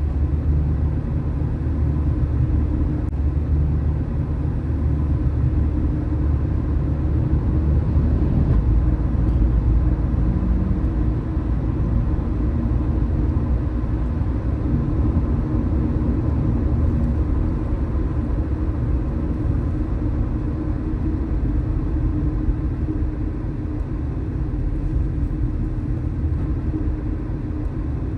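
Car driving on city streets: steady low rumble of engine and road noise, with tyre hiss.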